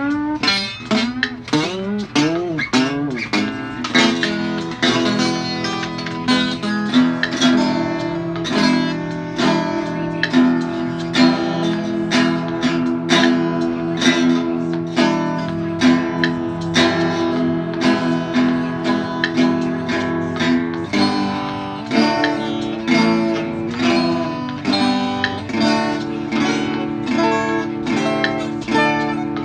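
Acoustic guitar music, plucked notes and chords played at an even pace, with notes bending up and down in pitch over the first few seconds.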